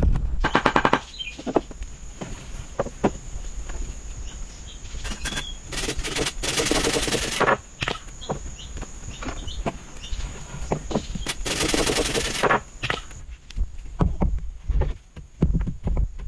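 Hand woodworking on timber: scattered knocks and taps, with three bursts of rapid rasping strokes about a second each. A faint steady high whine runs underneath.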